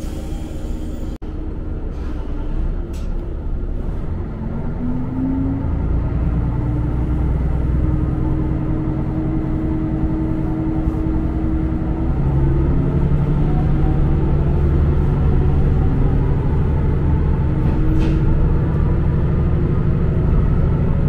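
Diesel railcar heard from inside the carriage, a steady low rumble with an engine note that climbs in pitch as the train accelerates. It grows louder about twelve seconds in.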